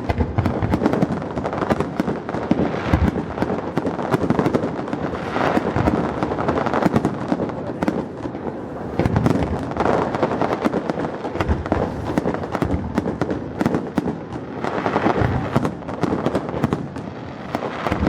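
Fireworks going off in a dense, continuous barrage, with many rapid sharp cracks and bangs overlapping.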